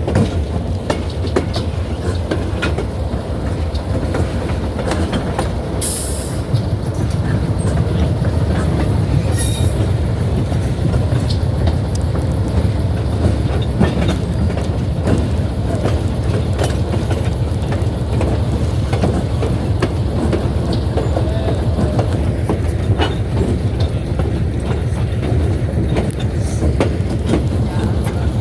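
Excursion train rolling along the track: a steady low rumble with repeated clicks from the wheels over the rails, growing a little louder after about seven seconds. Two brief high-pitched bursts come about six and nine seconds in.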